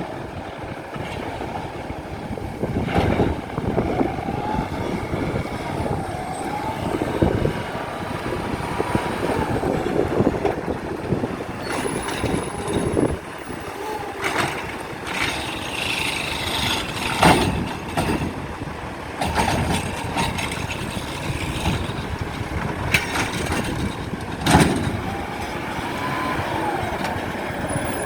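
Garbage truck working: its engine rises and falls in pitch as it revs, in two stretches, with several sharp metal clanks and bangs in between.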